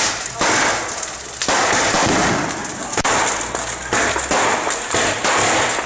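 Fireworks going off in a rapid series: a sharp bang roughly every half second to a second, each trailing off in a crackling hiss.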